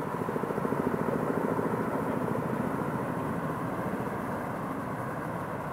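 Helicopter rotor chop: a rapid, steady beating that grows a little louder about a second in, then slowly fades.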